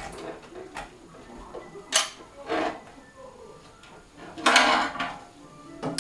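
Tools and small objects being handled: scattered clinks and knocks, a sharp click about two seconds in, and a louder scraping rustle a little before the five-second mark.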